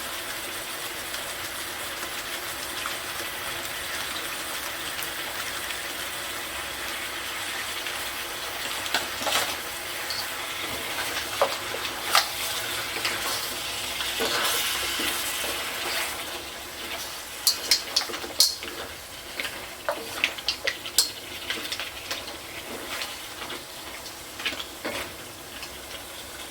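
A pan of seafood sizzling steadily on the stove. From about nine seconds in, utensils click and knock against the pan and dishes, more often near the end.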